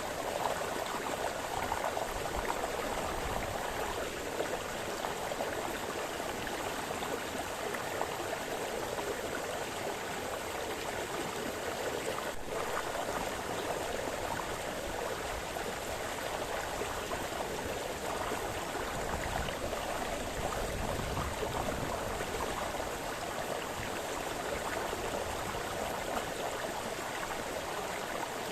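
Small brook splashing and burbling over stones: a steady rush of running water.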